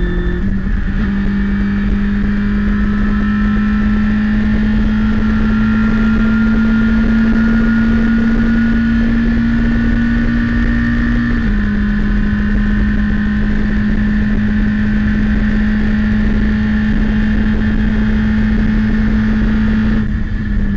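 Citroën Saxo race car's engine heard from inside the cockpit, pulling hard at high revs with its pitch climbing slowly. About halfway through the pitch drops at an upshift from fourth to fifth gear, then climbs again. The sound eases slightly just before the end.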